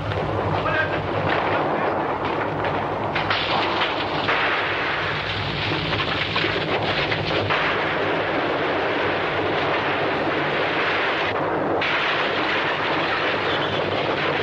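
Earthquake sound effect: a loud, continuous deep rumble and roar with crashes mixed in, as of buildings shaking and coming down.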